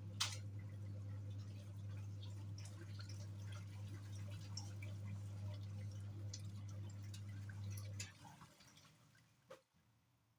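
Hisense 7.5 kg twin-tub washing machine running with a steady low motor hum, water dripping and splashing over it; the hum stops about eight seconds in.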